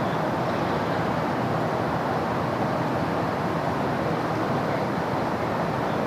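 Steady city road-traffic noise: many vehicles blended into one even wash of sound at a constant level, with no single passing vehicle or horn standing out.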